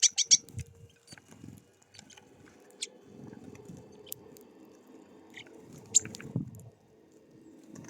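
Small birds at a seed feeder: a quick burst of sharp high chirps at the start, then soft pecking and rustling in the seed with scattered clicks, and one sharp tap about six seconds in.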